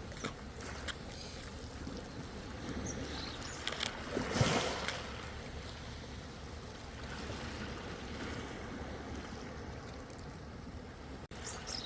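Ocean waves washing in and lapping, with one larger wave swelling and breaking about four seconds in and small splashes and trickles between.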